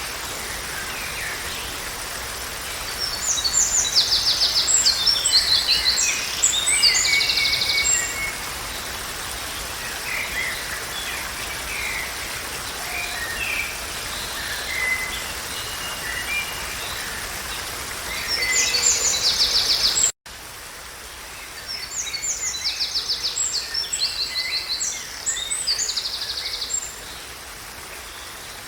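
A songbird singing phrases of fast, high trilled notes, three bouts of song, over a steady hiss of outdoor background noise. The recording cuts out abruptly for an instant about twenty seconds in and resumes with a quieter background.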